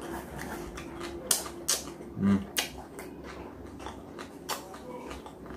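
A person chewing a mouthful of raw onion with a hot chili pepper: crisp crunching clicks every second or so, with a short low sound from the throat about two seconds in.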